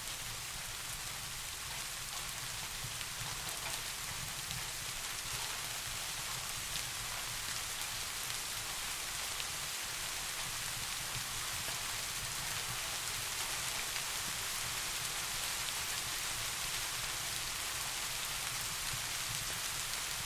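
Steady soft rain falling, with scattered individual drops ticking through an even hiss and a low steady rumble underneath.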